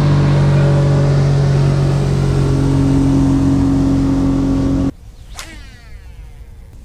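Motorboat engine running loud and close, a steady drone that cuts off abruptly about five seconds in.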